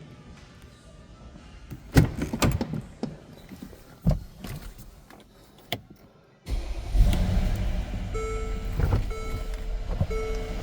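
Several clunks, as of the Mercedes GL550's doors or interior fittings being worked. Then its twin-turbo engine starts running with a steady low rumble about two-thirds of the way in, with a repeating warning chime beeping about once a second over it.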